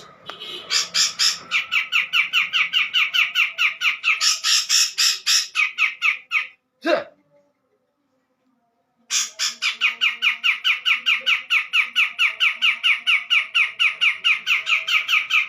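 Cucak jenggot (grey-cheeked bulbul) giving a fast, harsh chattering song of evenly repeated notes, about four to five a second. The calling breaks off about six seconds in, leaves a silent gap of a couple of seconds, then starts again and carries on.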